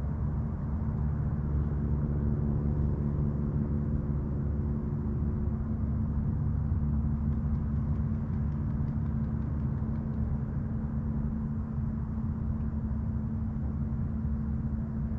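Boat engine running steadily: a low drone with a steady hum, some higher tones of which fade out about five seconds in.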